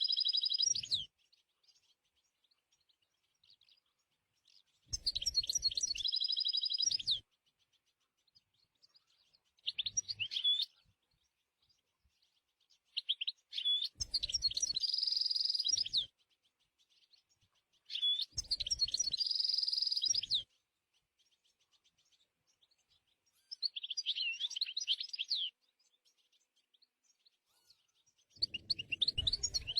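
European goldfinch singing: about six short phrases of fast twittering notes with quick pitch glides, each a second or two long, separated by pauses of a few seconds.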